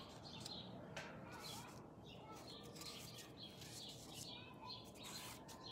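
Faint birds chirping in the background, in short repeated calls, with a few soft taps of paper cards being laid on a cloth-covered table.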